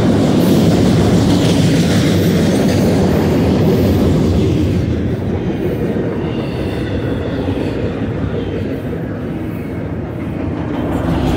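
Double-stack intermodal container well cars rolling past at close range: a steady low rumble of steel wheels on the rails.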